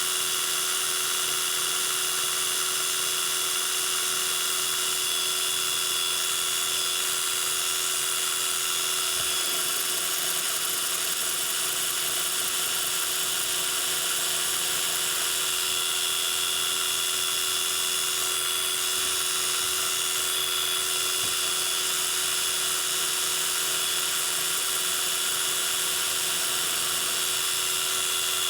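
Metal lathe running steadily, a high mechanical whine made of several constant tones, as an acrylic pen blank is turned.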